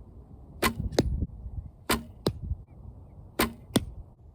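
Three shots from a 35-pound recurve bow. Each is a sharp snap of the string at release, followed about a third of a second later by a smack as the arrow strikes the target.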